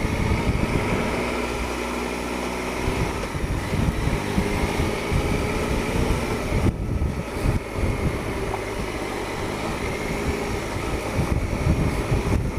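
Triumph Explorer 1215cc three-cylinder motorcycle engine running as the bike is ridden, its note rising and falling with the throttle.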